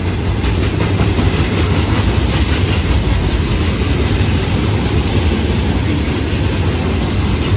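Loaded freight hopper cars of a rock train rolling past close by: a steady, loud rumble of steel wheels on the rails with clattering.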